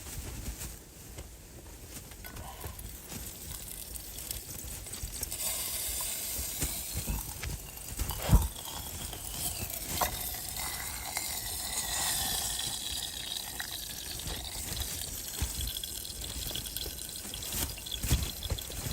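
Water pouring into a container, starting about five seconds in, its pitch rising as it fills. A single sharp knock comes about eight seconds in.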